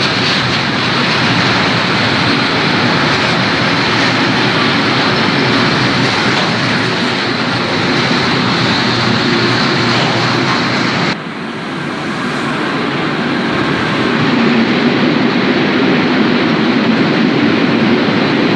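Electric-hauled freight train passing at close range: a steady loud rumble and rattle of the wagons on the rails, which drops abruptly about eleven seconds in and then builds back up.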